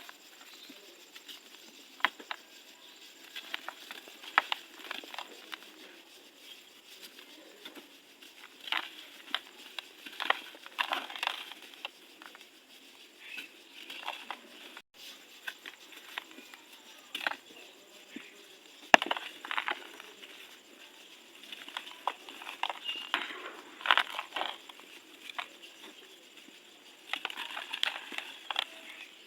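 Dry, dusty, crunchy lumps being crumbled in a tub: irregular crisp crunches and crackles that come in clusters every second or two, with short pauses between them.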